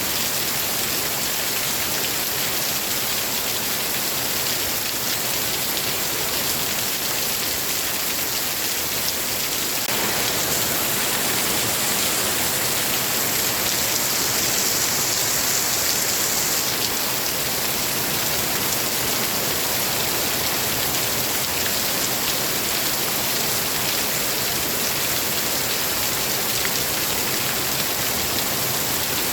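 Steady heavy rain falling, an even hiss of drops, a little louder from about a third of the way in.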